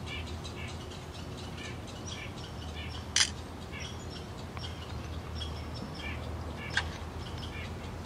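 Birds chirping in short, repeated calls over a low steady hum, with two sharp clicks, the louder about three seconds in and another near seven seconds.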